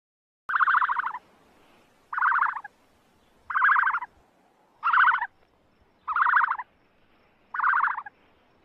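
Emu calling: a short, rapid rattling call repeated six times, about every 1.3 seconds.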